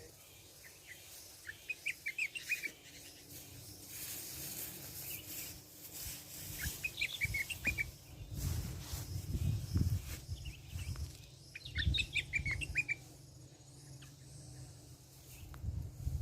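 Sooty-headed bulbuls (kutilang) calling in three short bursts of quick chirps, one near the start, one in the middle and one about three quarters through. Low thumps and rustling come in the second half.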